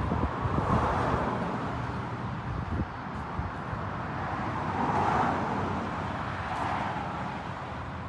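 Outdoor road-traffic noise: vehicles passing in slow swells about a second in, around five seconds and near seven seconds, over a faint steady low engine hum.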